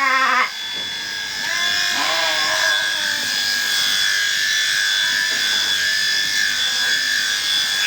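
Electric sheep-shearing handpiece running with a steady high whine. Sheep bleat at the start and again faintly about two seconds in.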